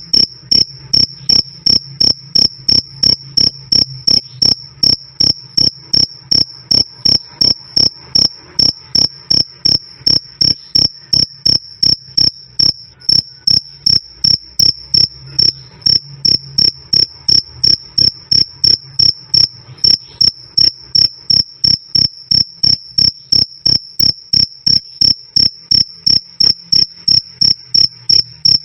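Cricket chirping loudly and steadily on one high pitch, about two to three evenly spaced chirps a second, with a faint low hum underneath.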